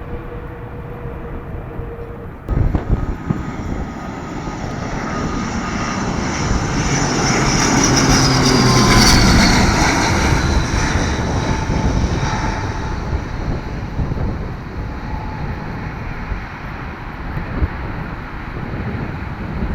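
Airliner engines passing close by: the sound swells to a peak about eight to ten seconds in, with a high whine that falls in pitch as it goes past, then fades away. Wind buffets the microphone with low thumps near the start.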